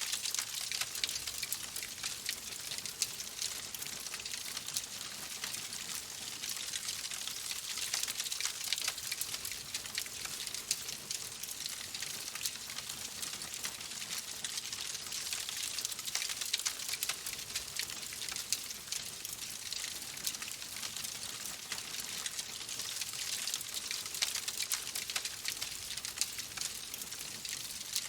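Wood fire in a fireplace crackling: a steady hiss dense with many small, sharp pops and snaps.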